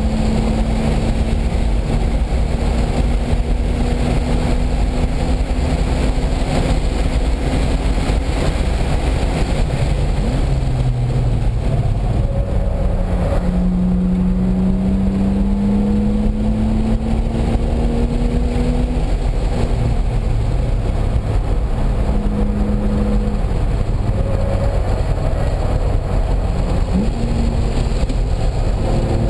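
Car engine lapping a race track, its note climbing slowly under acceleration and dropping back again several times, over a steady heavy low rumble.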